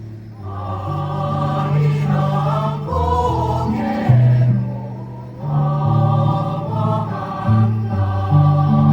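Choir singing a slow song in long held chords, the phrases swelling and easing off, with a brief lull about five seconds in.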